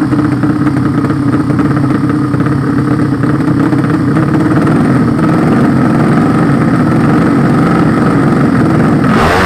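Drag-racing motorcycle engine running steadily at a held speed, its pitch shifting and sweeping near the end.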